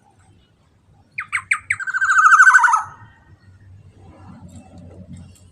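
Black-naped oriole calling: three quick down-slurred notes, then a fast rattling trill that slides down in pitch for about a second. A faint low rumble follows.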